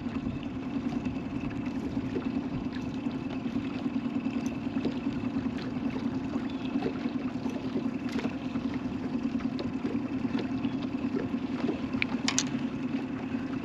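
Boat motor running steadily at trolling speed, a constant low hum with a faint high whine above it.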